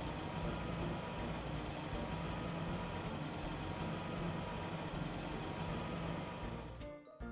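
Steady vehicle engine rumble that drops out briefly near the end.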